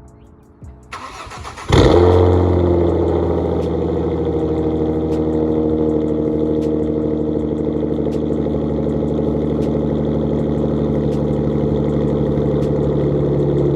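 Ford Mustang V6 running a catted X-pipe with no mufflers or resonators: it cranks briefly, fires with a loud flare, then settles into a steady, deep idle.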